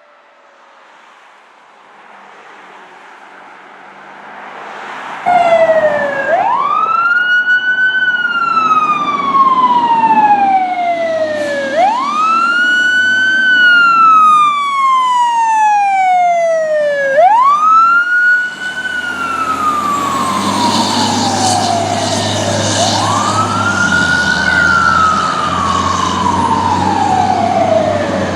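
Fire truck siren wailing: each cycle is a quick rise followed by a long slow fall, repeating about every five and a half seconds. It starts faint and turns loud about five seconds in, and from about two-thirds of the way through a deep low rumble from the truck joins it.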